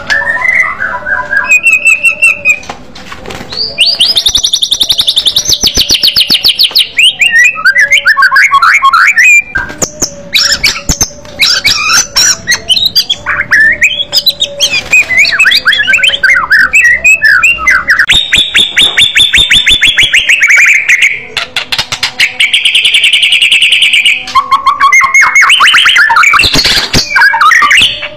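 White-rumped shama (murai batu) singing loudly in quick, varied phrases: long rattling trills alternate with rapid strings of sharp notes, with short pauses between bouts.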